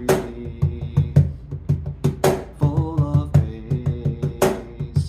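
Cajon played in a steady groove, deep bass strokes alternating with sharp slaps, accompanying a sung praise song.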